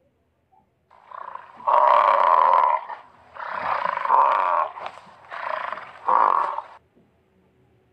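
Bison bellowing: a run of loud, rough, drawn-out calls, each about a second long with short pauses between them, the last one ending sharply.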